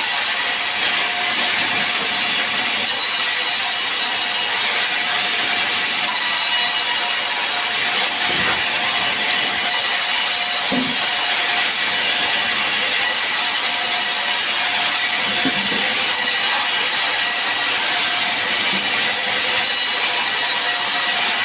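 Sawmill saw running steadily, most likely cutting sengon wood: an unbroken, even mechanical noise with no pauses.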